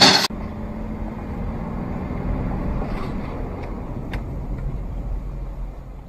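A car driving, heard as a steady low rumble with a few faint clicks; a louder sound cuts off abruptly just after the start.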